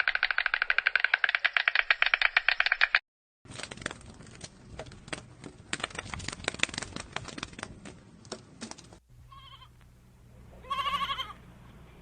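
Fast, even rattling pulses that stop abruptly after about three seconds, then a few seconds of irregular clicking, then an animal bleating briefly, twice, near the end.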